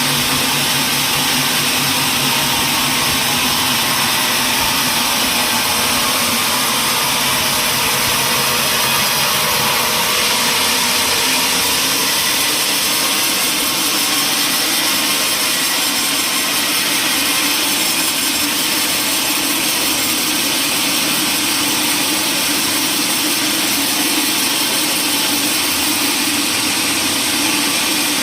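Sawmill machinery running steadily and loudly, an even mechanical noise without breaks.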